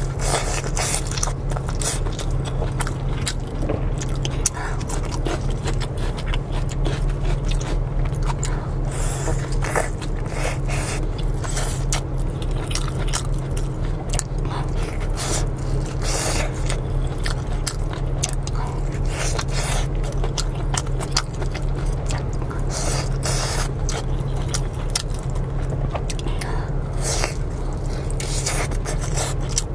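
Close-miked eating of luosifen (river-snail rice noodles): steady biting and chewing with many short wet smacks and clicks. A steady low hum runs underneath.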